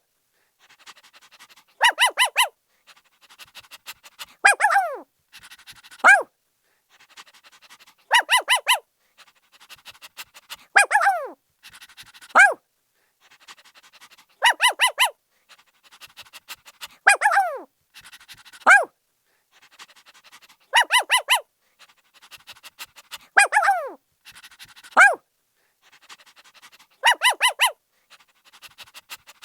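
A puppy barking: quick runs of three or four short, high yaps and single yelps that drop in pitch, with faint panting between. The same pattern repeats about every six seconds.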